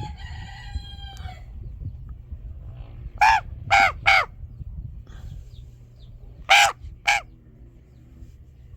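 Raven giving harsh caws: three in quick succession, then a pause, then two more.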